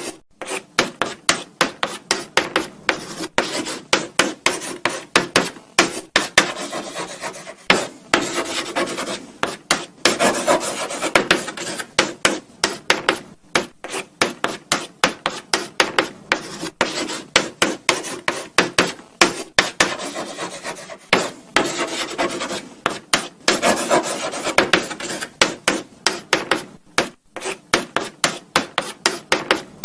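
Chalk writing on a blackboard: quick short scratching strokes, several a second, with now and then a longer drawn stroke.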